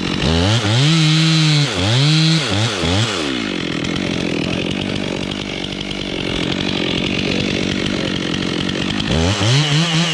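Two-stroke top-handle chainsaw, a Stihl MS 201, revved in short bursts: three quick throttle-ups in the first three seconds, then idling, then one more burst near the end.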